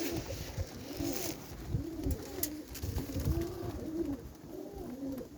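Several pigeons cooing over one another, call after call about every half second.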